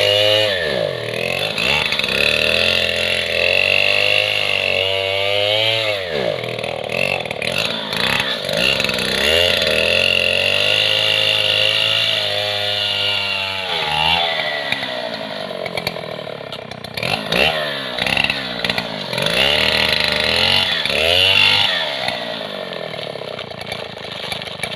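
Chainsaw cutting through a coconut palm trunk, its two-stroke engine revving up and dropping back again and again as the chain bites into the wood.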